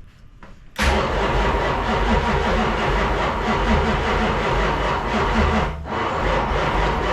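Dodge Road Runner's 440 V8 cranking over on the starter without catching, starting about a second in, with a short break near the end before cranking again. The ignition timing has just been retarded, by the owner's guess too far.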